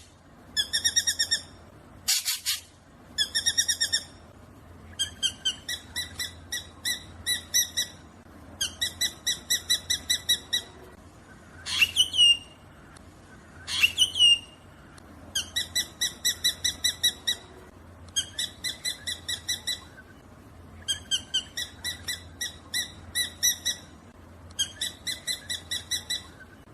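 Black drongo calling: repeated bursts of rapid, buzzy chattering notes, each burst lasting a second or two, with two sharp rising sweeps about midway. A faint steady low hum lies underneath.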